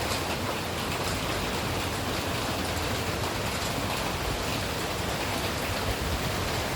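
Steady rain falling: a dense, even hiss with faint scattered drop ticks and a low rumble underneath.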